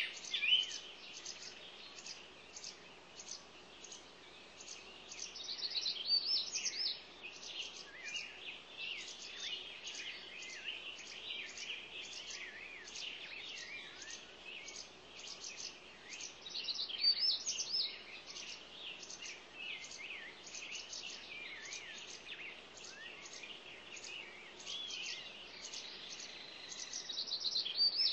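Many small cage birds chirping and warbling at once: a dense, continuous chatter of quick high chirps and song phrases, swelling louder about five seconds in, around the middle and near the end.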